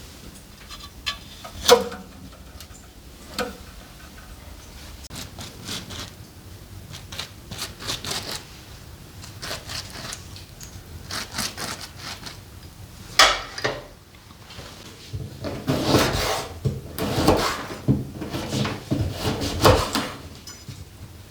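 Irregular knocks, clatters and scraping of objects being handled, with a couple of sharper knocks and a busier stretch of scraping and knocking in the last third.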